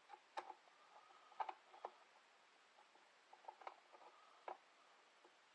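Faint, irregular clicks and taps from handling a small battery-powered light and its batteries, in a quiet small room.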